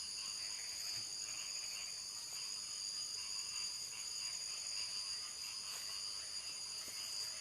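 Night chorus of crickets: a steady, unbroken high-pitched trilling.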